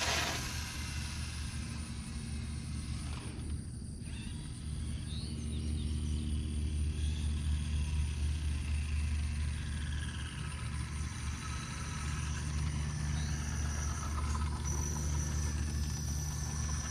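A steady low rumble, with faint high whines drifting in and out in the second half.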